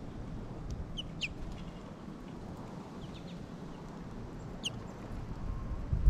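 A few short, sharp bird call notes over the low rumble of wind on the microphone. Two come close together about a second in, fainter ones around three seconds, and another just before five seconds.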